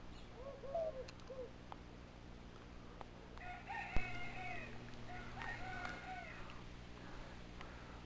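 Bird calls: a few short calls in the first second and a half, then two longer, drawn-out calls of about a second each. A single sharp click comes about four seconds in, over a steady low hum.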